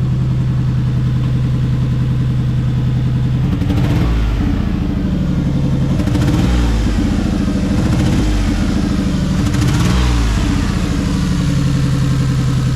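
Lexus RX 300's V6 engine idling and revved about four times, each rev rising and falling back to idle, with an exhaust leak that the mechanic diagnoses.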